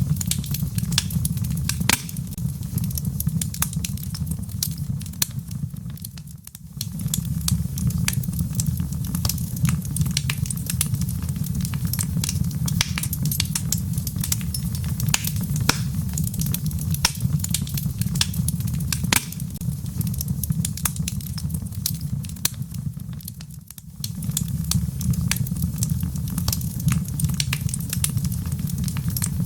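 Wood fire in a fireplace crackling, with frequent sharp pops and snaps over a steady low rumble. The level dips briefly twice, about six seconds in and again near 24 seconds.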